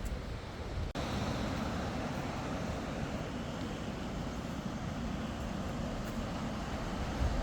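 Steady outdoor rumble and hiss, heaviest in the low end, with a brief dropout about a second in, after which it runs on slightly louder.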